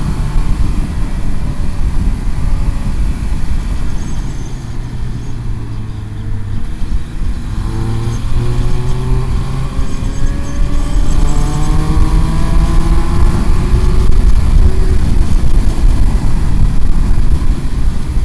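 Motorcycle engine under way, heard over a heavy low rush of wind. The engine note falls as the rider eases off about four seconds in, then climbs again through several rising pulls as the bike accelerates, getting louder toward the end.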